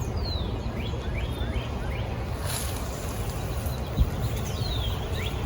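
Outdoor ambience: a steady low rumble, with short bird chirps and whistles scattered through it and a single knock about four seconds in.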